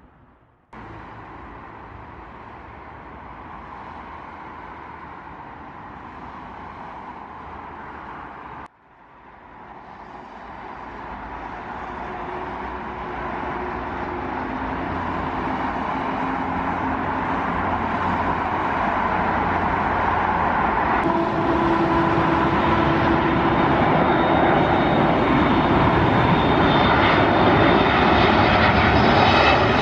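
Jet airliner engines: a steady drone for several seconds, then, after an abrupt cut, the noise builds steadily louder for the last twenty seconds as an aircraft comes closer.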